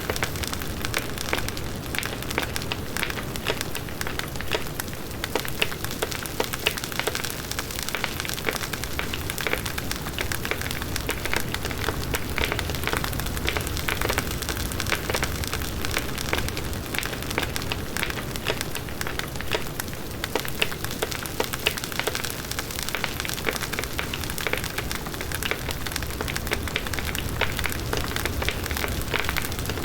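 Large bonfire of burning wood crackling, with dense irregular pops over the low, steady blaze of the flames.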